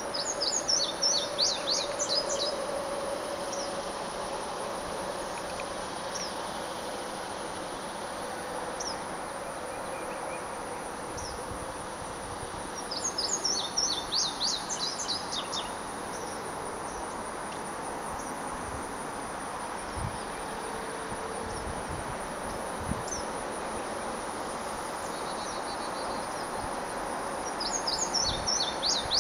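Indigo bunting singing its quick, high song of paired notes, three times, roughly every 13 seconds. A few single chips from other birds fall in between, over a steady high drone of insects.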